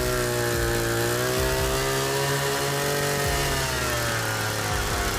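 Chainsaw engine running at a steady speed, its pitch sagging and recovering gently, as when the saw labours in a cut.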